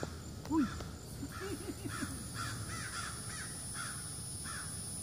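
Birds calling over and over, short arched calls about twice a second: the noisy alarm of birds at a black bear. A short low sound comes about half a second in.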